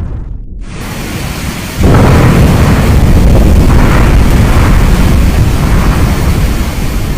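Thunder: a sudden loud crack about two seconds in, then a long rolling rumble that swells and fades in waves.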